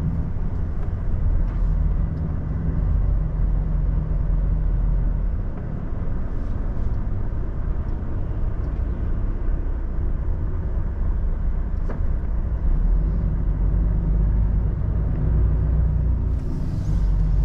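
Semi-truck's diesel engine running at low speed, a steady low rumble heard from inside the cab. A short hiss near the end.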